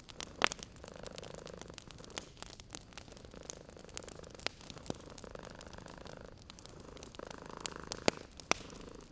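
Cat purring in slow in-and-out cycles, over the sharp pops and crackles of a fireplace; the loudest pops come about half a second in and near the end.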